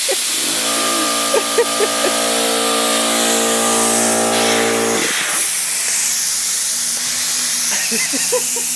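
A motor hums steadily with an even pitch for about four and a half seconds, then drops to a quieter, lower hum, all over a constant hiss.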